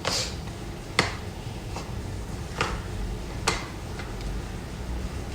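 Ninja personal blender working frozen fruit: a low steady hum with five sharp knocks spread about a second apart, the loudest about a second in.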